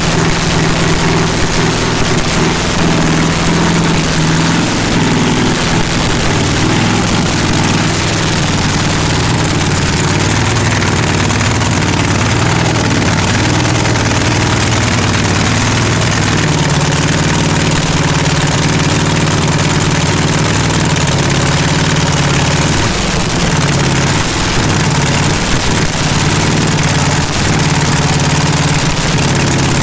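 Loud drag-racing car engine idling steadily, its pitch wavering briefly about three quarters of the way through.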